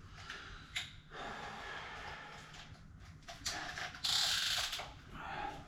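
Handling noises from tools being set up: a few clicks and knocks, with a brief louder scraping rustle about four seconds in.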